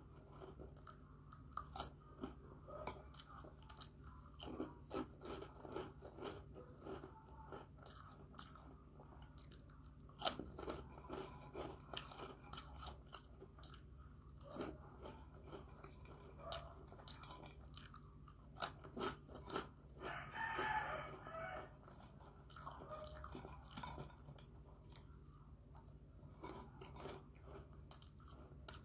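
Close-up crunching and chewing of crisp puffed snack chips, with a quick run of sharp crackles at each bite. About twenty seconds in, a short pitched call lasts a second and a half.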